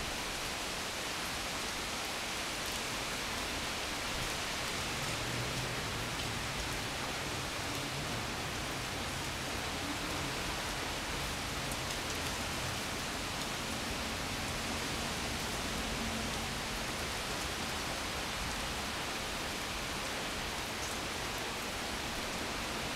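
Steady rain during a thunderstorm, an even hiss with no thunderclap.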